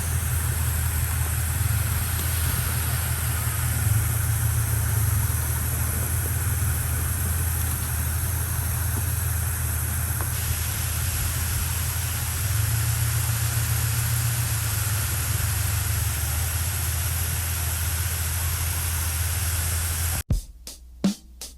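A steady low engine rumble with a hiss, as of a motor vehicle running. It cuts off suddenly near the end.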